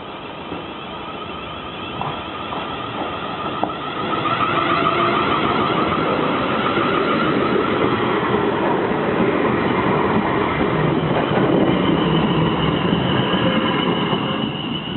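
Passenger train running over the level crossing, getting louder about four seconds in and staying loud, with a steady whine over the rumble of wheels on rail, a few sharp clicks, and a higher whine near the end.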